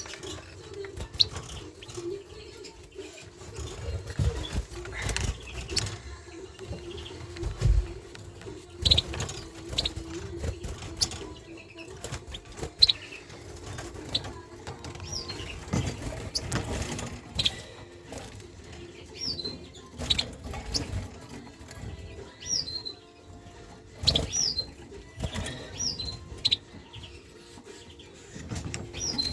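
Small cage birds (finches and finch-canary mules) fluttering and hopping in their breeding cages, with short high chirps every few seconds over a steady low hum.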